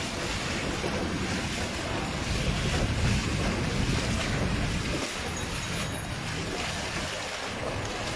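Steady rush of flowing floodwater, with wind buffeting the microphone.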